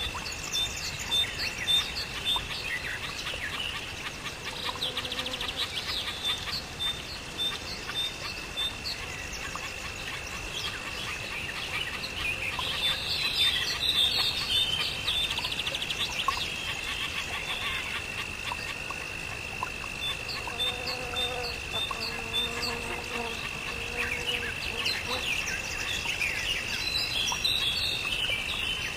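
Birds chirping and calling, with short repeated notes and quick rising and falling whistles, over a steady unbroken high-pitched insect drone.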